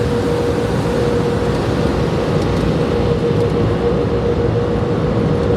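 Automatic tunnel car wash machinery heard from inside the car: a steady, loud rushing noise with a constant hum running through it.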